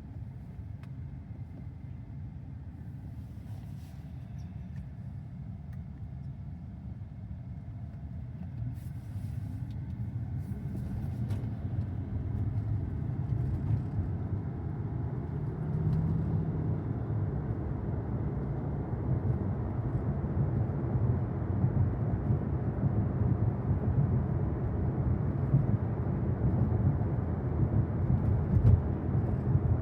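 Low road and tyre rumble of a 2023 Tesla Model Y electric car driving, growing steadily louder as it gathers speed.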